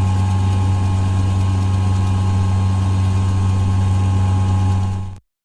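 A steady, loud low mechanical hum, engine-like, with a strong deep drone and a few fainter higher steady tones. It cuts off abruptly near the end.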